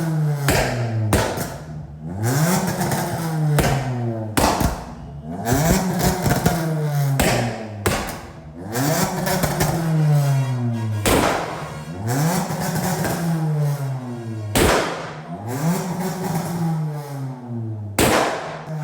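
Maruti Suzuki Baleno engine revved hard over and over, about every two seconds, each rev climbing and falling back, with loud exhaust bangs between revs.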